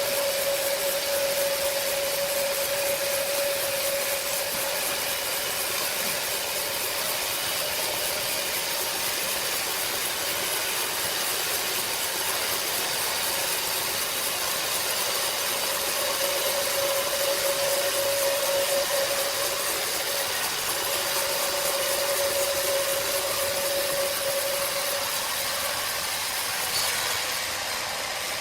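Sawmill machinery running steadily, with a steady whine that fades after a few seconds and comes back for several seconds in the second half.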